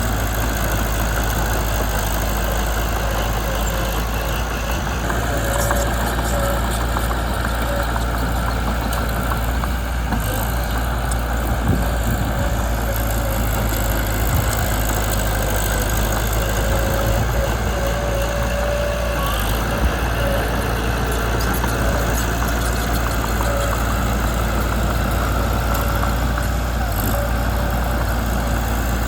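Mitsubishi BD2 bulldozer's diesel engine running steadily, with a few short knocks now and then.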